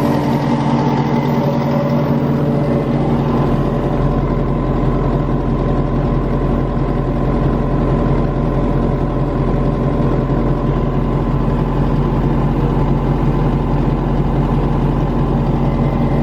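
Mercedes diesel engine of an Atlas Copco XAMS286MD portable air compressor running steadily.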